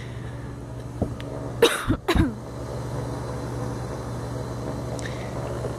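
A person coughing twice in quick succession about two seconds in, over a steady low hum.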